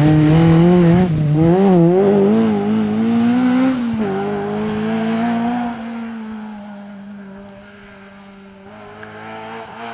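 Rally car engine at high revs, its pitch rising and falling quickly as the throttle is worked, then holding a steady note and fading away as the car drives off from about six seconds in.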